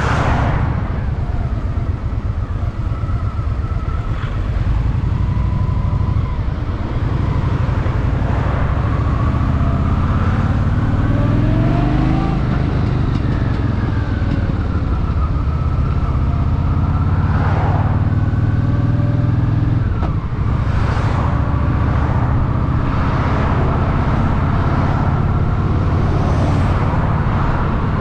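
Honda Shadow VT750's V-twin engine running under way in city traffic, a steady low rumble whose pitch rises and falls with the throttle.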